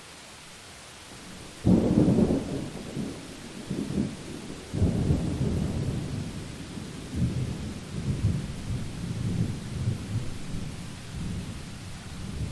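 Thunder in a rainstorm: a sudden low crack about two seconds in, a second surge a few seconds later, then a deep rumble rolling on for several seconds over the steady hiss of rain.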